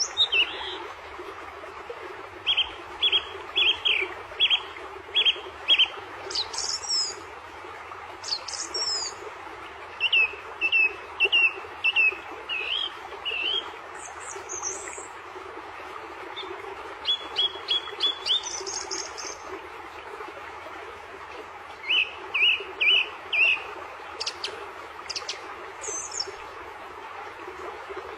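Songbirds chirping: runs of five or six short, evenly spaced notes repeated every few seconds, with higher, sweeping calls in between, over a steady background hiss.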